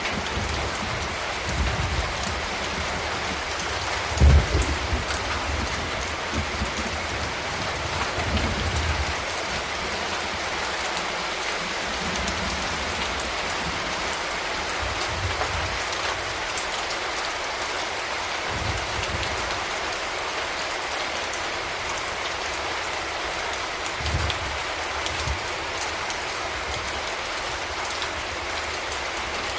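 Steady urban rain falling without a break, with a few short low rumbles, the loudest about four seconds in and others near eight and twenty-four seconds.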